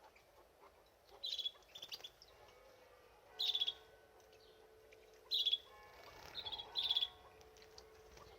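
Pet canary giving a series of short trilled chirps, about six, each under half a second, spaced unevenly.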